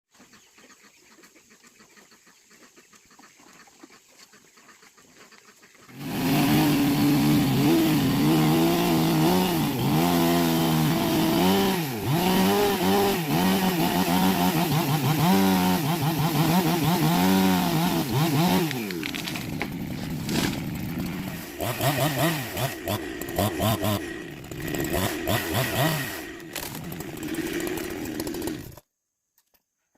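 Chainsaw revving up and down again and again, its pitch rising and falling, starting suddenly about six seconds in after a faint stretch. After about two-thirds of the way through it runs more unevenly, then cuts off just before the end.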